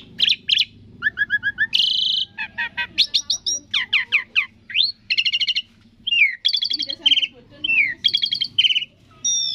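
Asian pied starling (jalak suren) singing a fast, varied song of short bursts: rapid runs of whistled notes, buzzy trills and downward-sliding whistles, with brief pauses between phrases.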